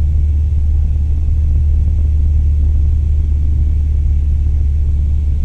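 Cessna 172M's four-cylinder Lycoming engine and propeller droning steadily in flight.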